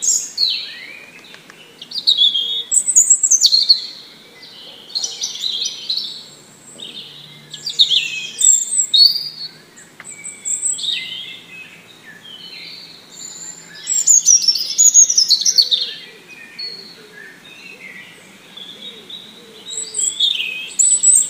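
Songbirds chirping and calling in quick, high-pitched phrases, in clusters every few seconds with short quieter gaps between.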